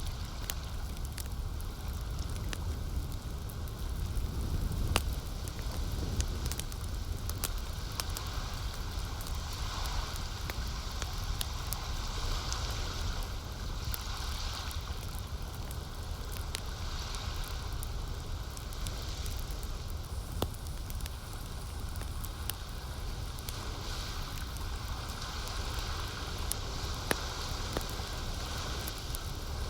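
Campfire crackling, with frequent sharp pops and clicks over a steady low rumble and a soft hiss that swells and fades every second or two.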